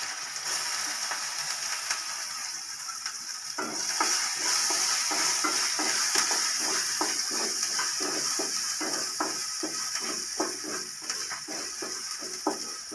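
Chopped ginger and garlic frying in hot tempering oil in a metal kadai, with a steady sizzle throughout. From about three and a half seconds in, a wooden spatula stirs and scrapes the pan in quick repeated strokes.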